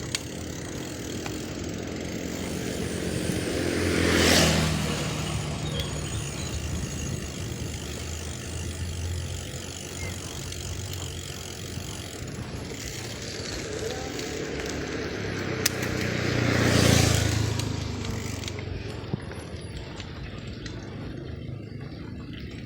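Two motor vehicles pass by one after the other, about 13 seconds apart. Each engine swells in as it approaches, drops in pitch as it goes past, and fades away, over a steady background hiss.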